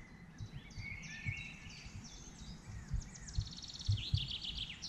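Songbirds singing: scattered chirps, then a quick trill of evenly repeated notes about three seconds in, over a faint steady outdoor background with a few short low thumps.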